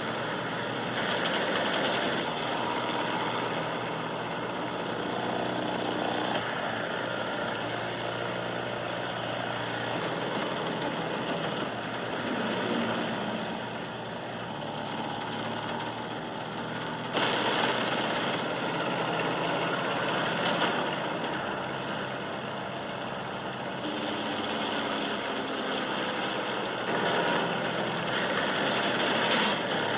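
Film sound of a propeller airplane's piston engine running steadily under a rush of wind, with a brief surge of louder, brighter rushing noise a little past halfway.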